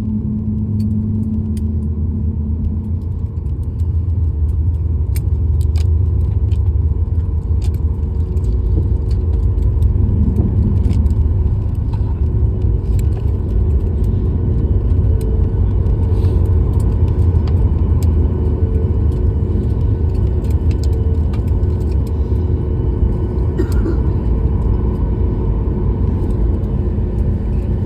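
Airliner after landing: a steady low rumble with a few faint steady tones and scattered clicks and light rattles.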